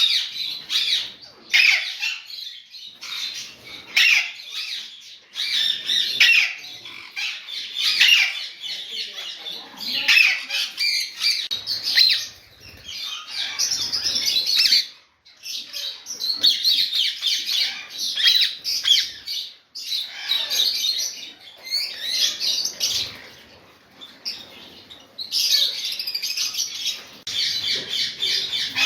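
Parrots calling: continuous, overlapping high-pitched chattering and squawks, with a couple of brief pauses.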